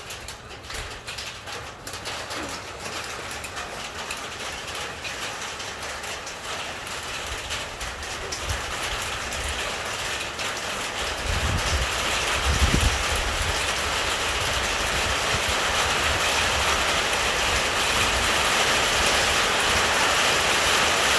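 Hailstones pelting down, a dense rattle of sharp clicks merging with heavy rain into a steady hiss that grows louder throughout. A low rumble comes about eleven seconds in and lasts a couple of seconds.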